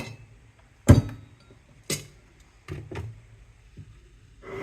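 Pieces of shred scrap metal clanking as they are handled and set down, a series of sharp separate knocks with the loudest about a second in.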